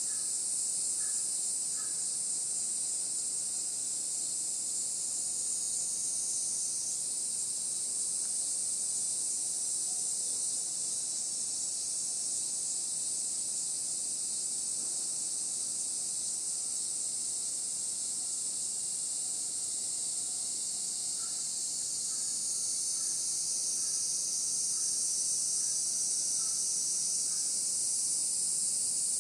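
Steady, high-pitched chorus of insects. Faint short bird notes are repeated at the start and again in the second half.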